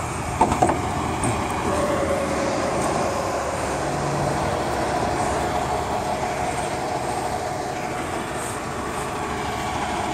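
Steady vehicle noise with a faint constant hum, and two short knocks about half a second in.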